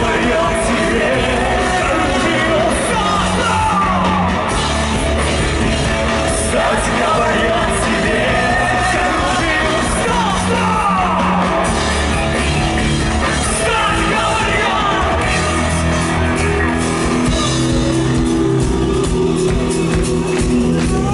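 Live rock band playing in a hall, loud and steady, with a melody line sliding up and down in pitch over the band. About sixteen seconds in, the playing changes to steadier held notes.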